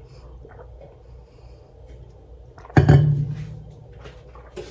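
A single loud thump about three seconds in, with a short low ring dying away after it, over a steady low hum.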